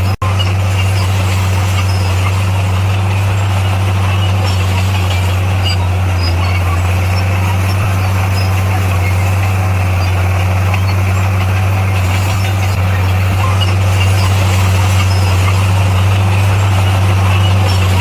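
Diesel engine of heavy earthmoving equipment running steadily with a deep, constant hum. It cuts out for an instant just after the start and grows slightly louder over the last few seconds.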